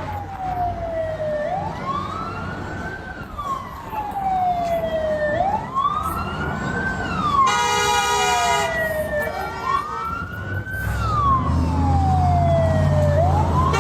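Emergency vehicle siren wailing, its pitch rising quickly then falling slowly, repeating about every four seconds. A buzzing tone joins briefly a little past halfway, and a low engine rumble builds near the end.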